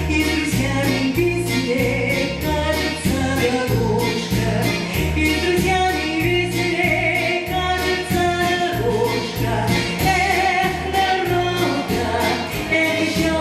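A female vocalist singing a song over a backing track, with a steady beat and a pulsing bass line.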